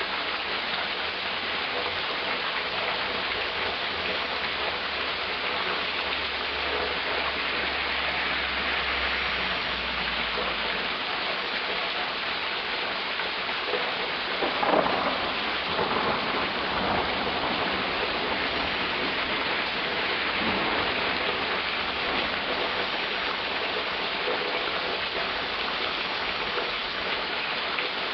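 Heavy rain pouring steadily in a thunderstorm, with a low rumble of thunder through the first ten seconds or so and a brief louder burst about halfway through.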